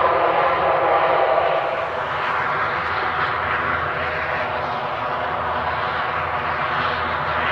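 Dornier 328-120 twin-turboprop's engines and propellers running: a dense whine of many steady tones over a rushing noise, the whine fading about two seconds in while the rushing noise carries on.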